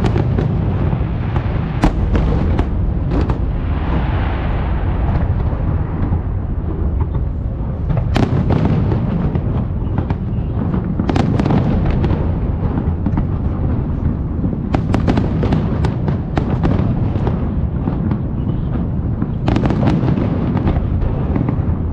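Aerial fireworks display: a continuous barrage of shell bursts, deep overlapping booms with sharp cracks and crackle scattered through, several cracks standing out louder than the rest.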